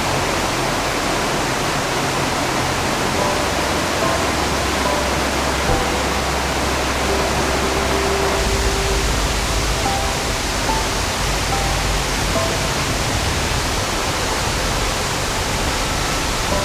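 Steady rush of mountain stream water flowing over rocks in the Oirase Gorge, with soft background music of sustained notes underneath.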